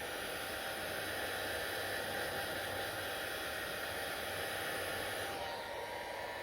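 Hair dryer blowing steadily: an even rush of air with a faint steady whine. About five seconds in its hiss turns slightly duller.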